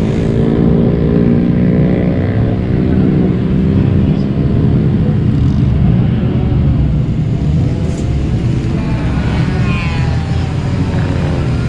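Car engines running loudly, the pitch easing down over the first few seconds, then rising again in a rev near the end.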